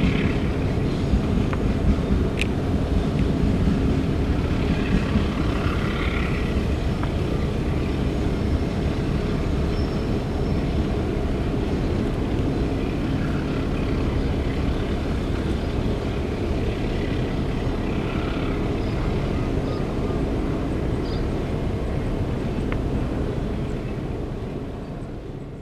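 Freight train of fuel tank wagons rolling away along the track, a steady low rumble that fades out near the end.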